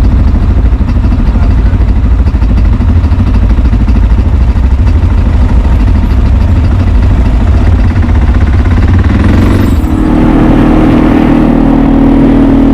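ATV engine running loud and continuous with a heavy low rumble. About ten seconds in, its note shifts to a steadier, higher hum.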